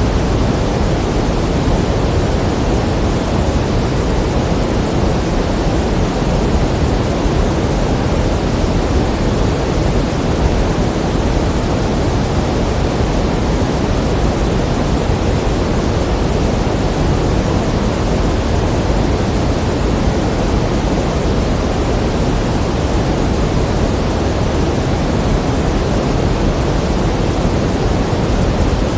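Pink noise: a steady, even hiss without tones or breaks, fuller in the low end and softer in the highs.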